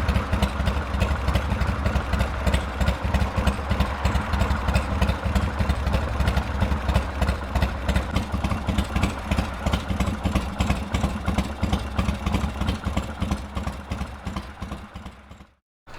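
Harley-Davidson FXR V-twin engine idling steadily with a rapid, even pulse, fading out near the end.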